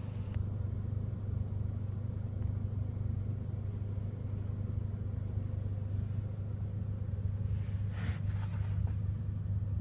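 Steady low hum of a 2014 Mercedes-AMG CLA45's turbocharged four-cylinder engine idling, heard from inside the cabin, with a brief faint rustle about eight seconds in.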